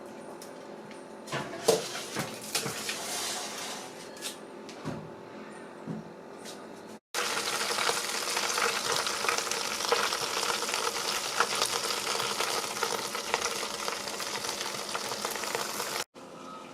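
Chicken pieces sizzling as they roast, a steady crackling hiss dense with small pops from spitting fat, starting abruptly about seven seconds in. Before it come a few sharp clattering knocks.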